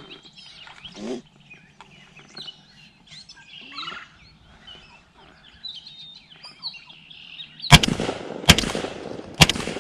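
Birds chirping and calling, then three rapid blasts from a .410 shotgun less than a second apart, fired at a turkey.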